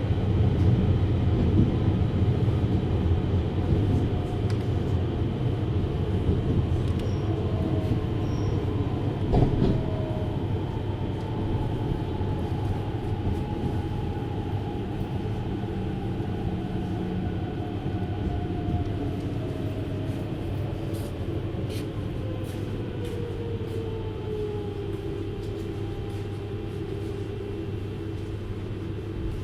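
Running noise inside a JR Hokkaido 733 series electric train: a steady rumble of wheels on rail with a motor whine. The whine falls gradually in pitch through the middle of the stretch while the noise eases, with a single knock about a third of the way in.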